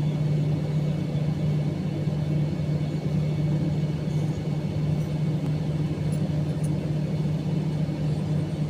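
Steady low hum and rumble inside an Airbus A321 cabin as it taxis after landing, with the jet engines running at low power.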